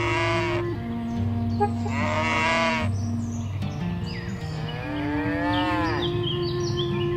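Cattle mooing: a call ending just after the start, another about two seconds in, and a longer one that rises and falls about five seconds in, over steady background music.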